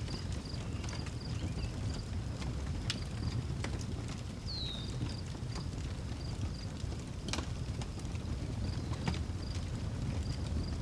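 Outdoor wood fire crackling, with scattered sharp pops over a steady low rumble. A cricket chirps in a steady pulse, about three chirps a second, and a bird gives one short falling whistle about four seconds in.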